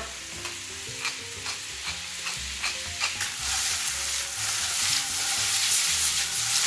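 Sliced bell peppers sizzling in olive oil in a stainless steel sauté pan over a gas flame while the pan is shaken and tossed, with light clicks about twice a second. The sizzle grows louder about three seconds in.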